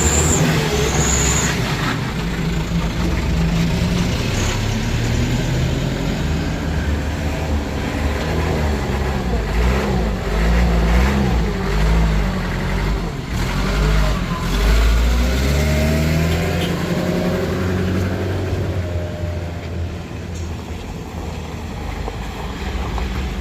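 Road vehicle engines pulling up a steep climb, the engine note rising and falling several times as they rev.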